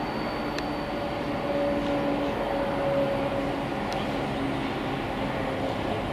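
Train passing, with the steady rumble and droning tone of a locomotive engine running.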